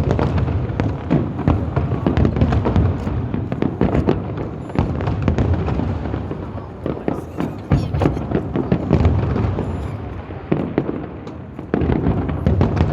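Fireworks display: a dense, unbroken barrage of sharp cracks and booms from aerial shells, several a second, over a low rumble, with a louder surge of booms near the end.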